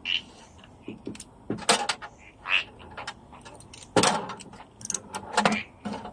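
Irregular metallic clinks and clanks of hand tools and parts being handled, with several sharper knocks scattered through.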